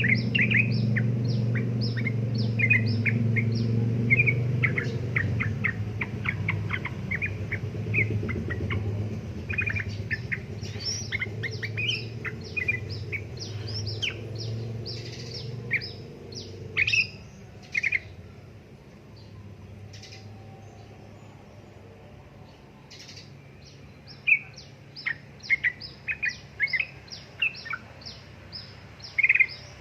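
Yellow-vented bulbul (trucuk) calling in rapid, chattering strings of short sharp chirps, with a pause around two-thirds of the way through before the chatter resumes. A steady low hum sits under the first half and stops about halfway through.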